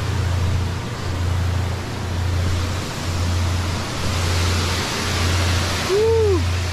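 A waterfall rushing steadily, with a low hum under it that swells and fades about once a second. About six seconds in comes a short tone that rises and then falls.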